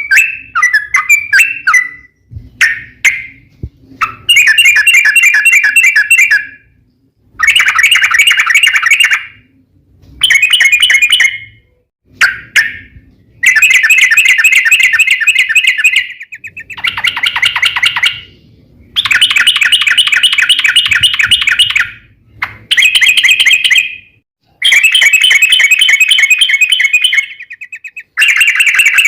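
Yellow-vented bulbul (trucuk) singing loudly in long, rapid, fluttering warbled phrases of one to three seconds each, repeated again and again with short breaks between them. This is the long 'ropel' song used as a lure to get other trucuk birds to answer.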